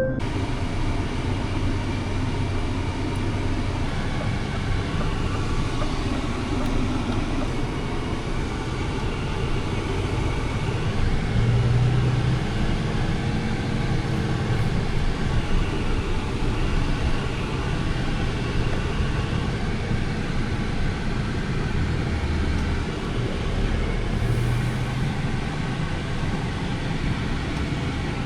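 Scania R500 truck with its 13-litre straight-six diesel running on the road: a steady engine drone under road noise. The engine note shifts a few times.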